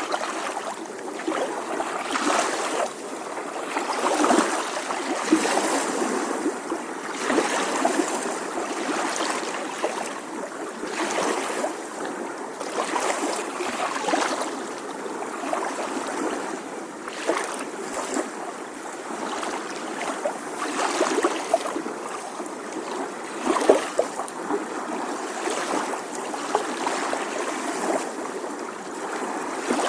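Small ocean waves lapping and splashing gently on a shore, a steady water rush that swells and breaks in uneven surges every second or two.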